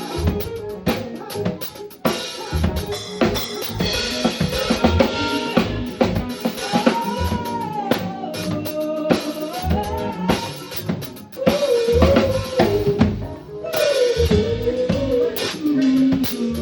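Live band playing, led by a drum kit with kick drum, snare and rimshots. From about halfway through, a lead instrument plays a melody that bends and glides in pitch over the drums.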